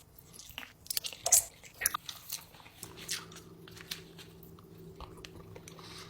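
Biting and chewing food close to the microphone: a run of crisp, irregular crunches over the first couple of seconds, then quieter chewing over a steady low hum that starts about halfway through.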